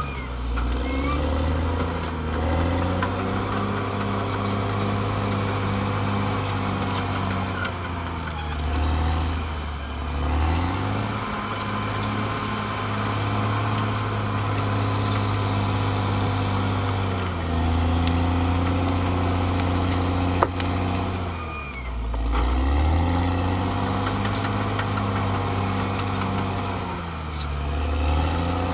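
Caterpillar D6R XL bulldozer's diesel engine working, its pitch dropping and recovering several times as the load changes. A single sharp knock about twenty seconds in.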